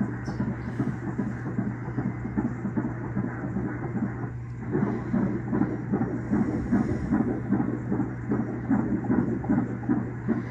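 Fetal heartbeat played through an ultrasound Doppler: a fast, even pulse at about 146 beats a minute, a normal, healthy rate. It drops out briefly about four seconds in.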